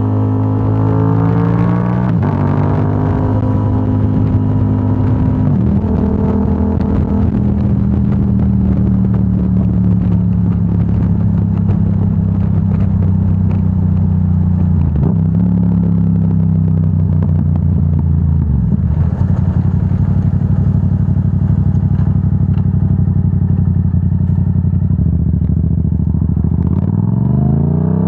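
Yamaha R7's parallel-twin engine running through a Yoshimura AT2 full exhaust while riding: the engine note steps up and down several times with shifts and throttle changes, then the revs climb steeply near the end.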